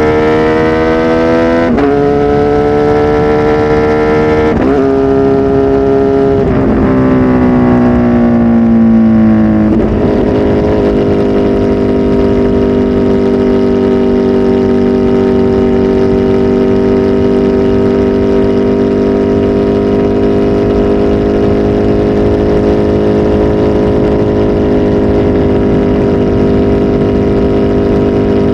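Kawasaki Z H2 SE's supercharged inline-four with a full aftermarket exhaust, pulling up through the gears. The pitch climbs and drops sharply at each shift, then falls away as it slows. From about ten seconds in it holds a steady, even note.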